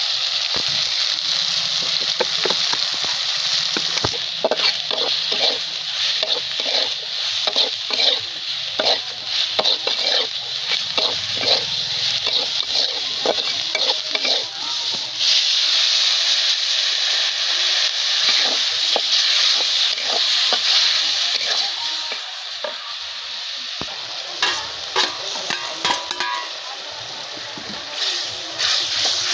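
Onion and spice masala sizzling in a metal kadhai, a steady frying hiss, while a flat metal spatula stirs it with repeated scrapes and taps against the pan, thickest through the first half and again near the end.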